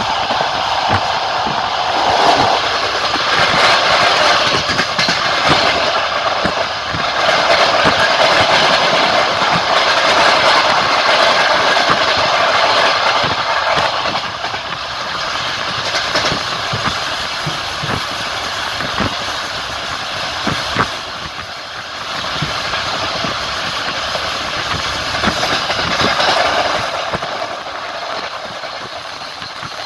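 Passenger train running along the line, its wheels clicking over rail joints under a steady rushing rail noise that eases a little about halfway.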